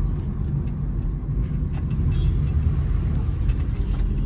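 Steady road and engine rumble inside the cabin of a moving Honda City car, with scattered light ticks.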